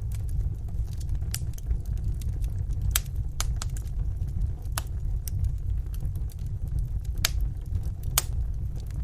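Wood fire in a fireplace crackling: sharp pops and snaps about once a second over a steady low rumble of the flames.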